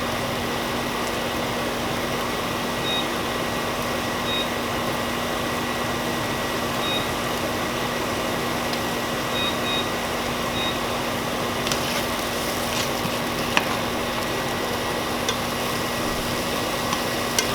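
Steady hum and whoosh of a kitchen fan, with onions and green pepper sizzling in olive oil in a pan underneath. A few light clicks come in the later seconds.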